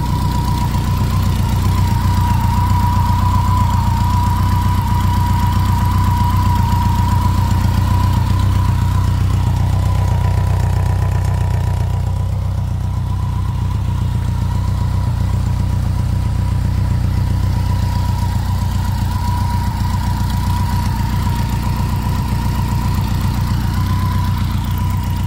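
BMW K100's inline four-cylinder engine idling steadily, a constant low engine note with a thin steady whine above it. It is running well.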